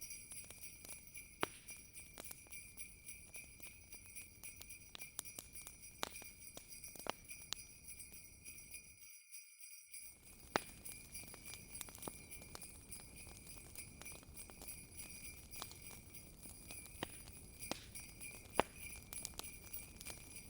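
Jingle bells ringing on and on over a crackling fire, with frequent sharp pops and snaps. The low rumble of the fire cuts out for about a second roughly nine seconds in, while the bells carry on.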